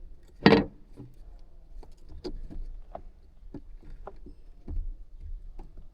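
Work noises of parts being put back by hand: one sharp knock about half a second in, then scattered light clicks and taps.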